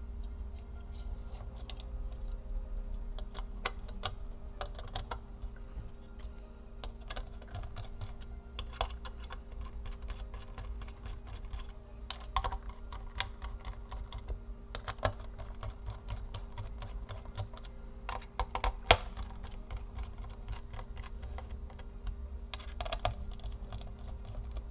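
Irregular small clicks and taps, in clusters, from fitting the laptop's CPU cooler and turning its screws in with a small screwdriver; one sharper tap about three quarters of the way through.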